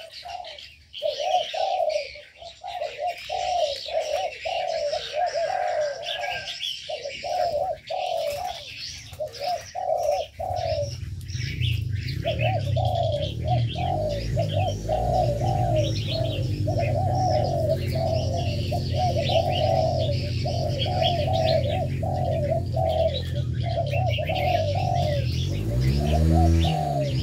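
Doves cooing over and over in quick, pulsed phrases, with smaller birds chirping at a higher pitch throughout. About ten seconds in, a low steady drone of sustained tones comes in underneath.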